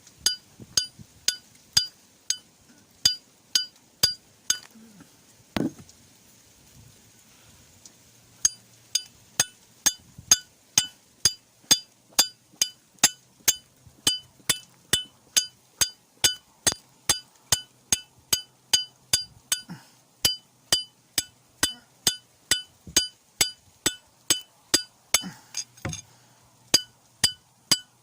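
A steel file struck again and again against a piece of stone to throw sparks onto agave-fibre tinder, each strike a sharp ringing metallic clink, about two a second. The strikes pause briefly about six seconds in, then carry on steadily.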